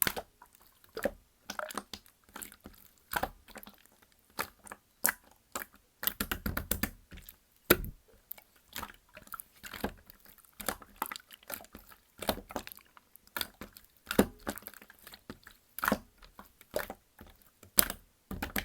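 Slime being kneaded, poked and stretched by hand: an irregular run of sticky pops and clicks with short crackly squishes between them.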